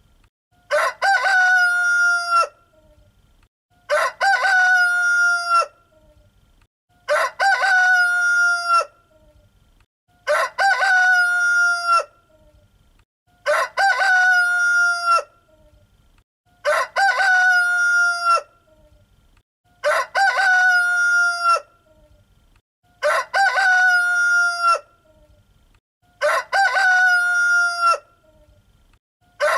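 Rooster crowing cock-a-doodle-doo, one crow about every three seconds, each about a second and a half long and all alike, with quiet between them.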